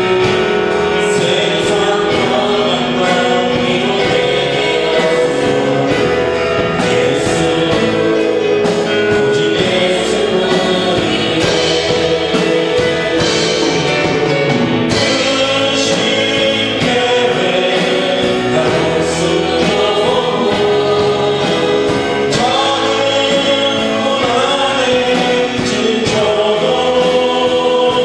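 Congregation singing a Korean worship song with a live worship band, a cymbal keeping a steady beat.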